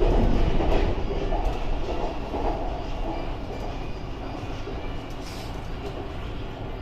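Metro train running, heard from inside the carriage: a steady low rumble with wheel and track noise that slowly grows quieter.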